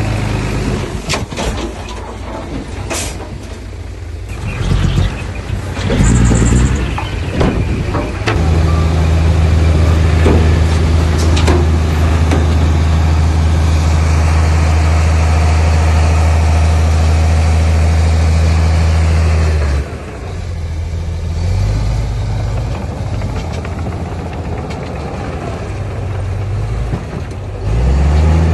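Heavy diesel construction machinery running, with several knocks and clanks in the first few seconds and a short hiss of air about six seconds in. A steady low engine hum then holds loud until about twenty seconds in, drops away, and returns near the end.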